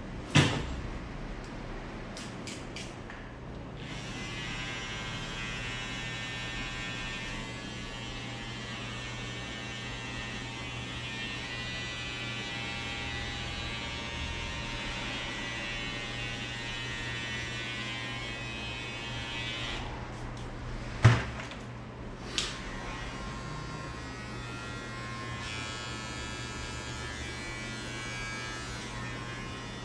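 Electric hair clippers running with a steady, even buzz. There is a sharp click just after the start and two more about two-thirds of the way through.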